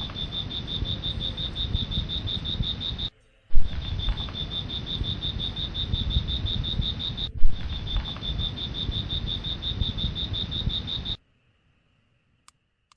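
Insects trilling: a high, evenly pulsing chirr over a heavy low rumble, heard in three abruptly cut stretches, each opening with a knock. It drops to near silence about eleven seconds in.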